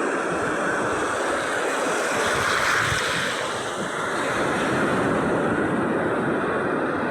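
Sea waves washing in, a continuous rushing surf that swells about two to three seconds in, eases briefly, then builds again.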